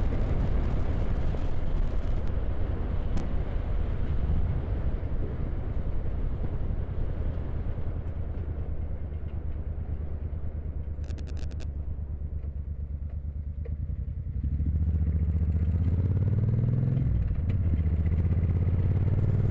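Motorcycle engine running under way, heard from inside the rider's helmet over wind rush. The engine eases off about eight seconds in, pulls harder again from about fourteen seconds with a brief rise and fall in pitch, and a short patter of faint ticks comes near the middle.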